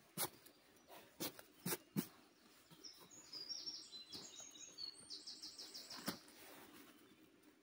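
A small songbird singing high chirped notes that end in a quick trill of about eight evenly repeated notes. Several sharp cracks or snaps come in the first two seconds and once more near the end.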